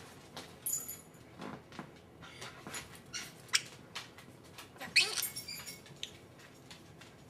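Senegal parrot making soft, scattered sounds: a few short squeaky notes, two of them sliding downward, and sharp clicks.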